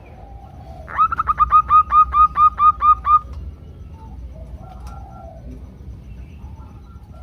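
Zebra dove calling: a rapid run of about a dozen short, clipped notes lasting about two seconds, starting about a second in and growing louder, followed by fainter scattered dove calls. It is a female calling to males.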